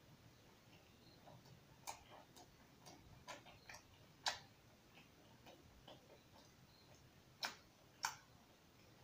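Soft close-up chewing with irregular wet mouth clicks and lip smacks, three sharper ones about four seconds in and near the end.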